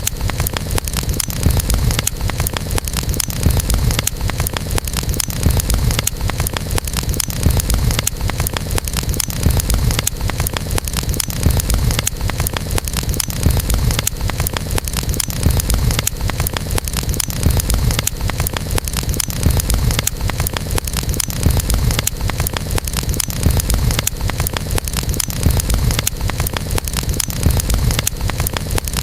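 Wood campfire burning, with a dense steady crackle of small pops over a low rumble.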